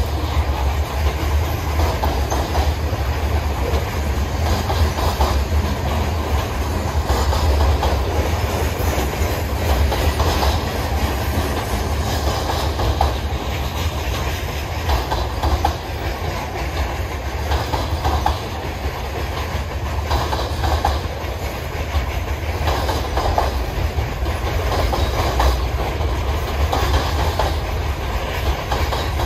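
Freight train of covered hopper cars rolling past at close range: a steady rumble of steel wheels on the rails, with the clickety-clack of wheels striking rail joints again and again.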